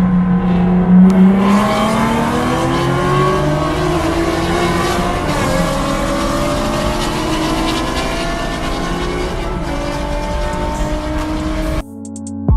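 Infiniti G35's V6 engine running under way: the engine note climbs briefly about a second in, then falls slowly and steadily. It cuts off suddenly near the end, giving way to music.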